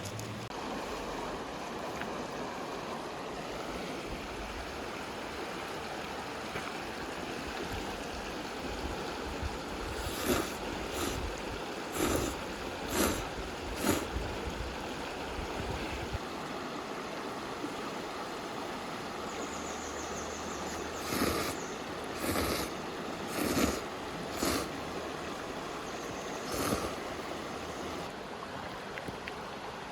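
A stream running steadily, with several short sharp sounds in two clusters, one about a third of the way in and another about two-thirds of the way in.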